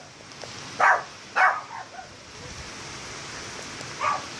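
A dog barks three times, twice close together near the start and once near the end, over the steady hiss of rain.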